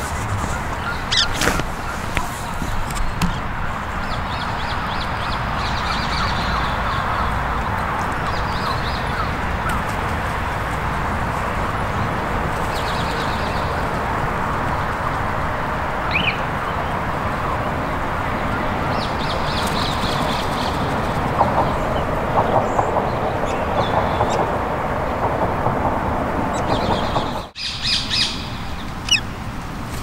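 Wild birds calling: scattered short chirps and squawks over a steady background rush.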